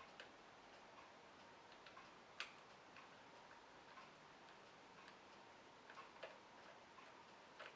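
Near silence with a few small, sharp clicks of parts being fitted back onto a vacuum cleaner's motor by hand, the loudest a little over two seconds in and a couple near the end, over a soft regular tick about once a second.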